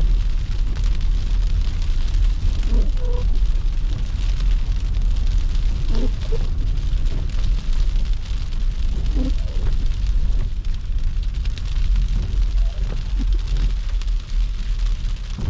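Steady low rumble of a car being driven through snow, with road and tyre noise.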